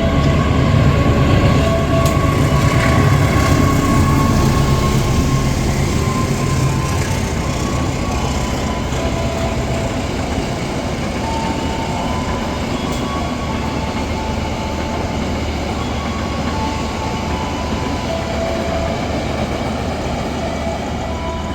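KA Gayabaru Malam Selatan passenger train running along the track: a steady low rumble of wheels on rail, with short high tones that come and go and loudness easing slightly toward the end.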